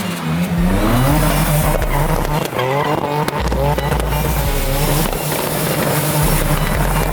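Drift car's engine revving up and down repeatedly, with tyres squealing as the car slides.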